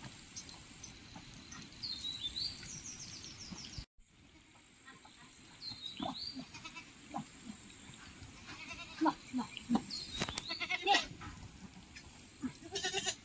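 Goats bleating in scattered short calls, busiest in the second half.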